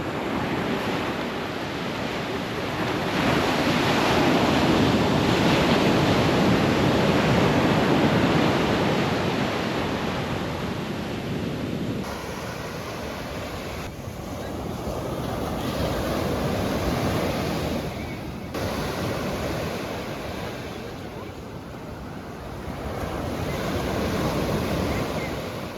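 Ocean surf breaking on a beach, a steady rushing wash that swells and ebbs with the waves, loudest in the first half.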